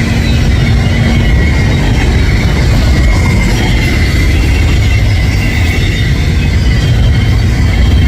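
Loaded double-stack container train rolling past close by: a steady loud rumble of wheels and cars, with a faint high steady whine over it.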